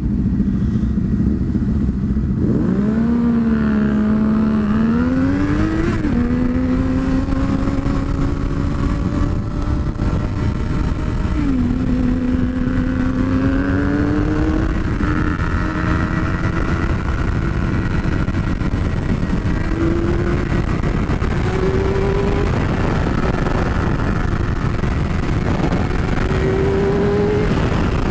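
2006 Honda CBR600RR's inline-four engine under way, its pitch climbing and dropping back sharply at gear changes, then rising slowly in the second half, over heavy wind rush on the microphone.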